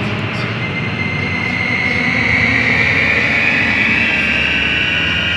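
Eerie sound-effect drone: a loud, steady rushing noise with a high whine that swells in and splits into several tones gliding apart, some rising and some falling.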